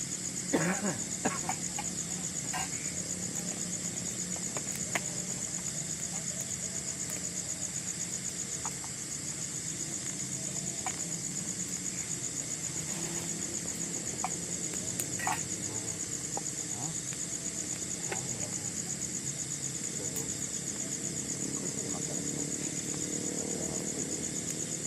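Steady, high-pitched chorus of forest insects, with scattered sharp clicks and knocks, a cluster of them about half a second in.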